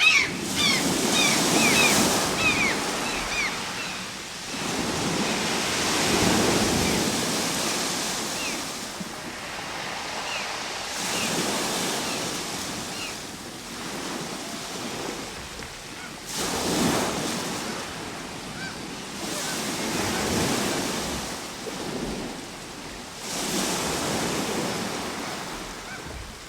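Ocean waves breaking and washing on the shore in slow swells, one every four to six seconds. Short bird calls chirp over the surf in the first couple of seconds, and a few fainter ones come later.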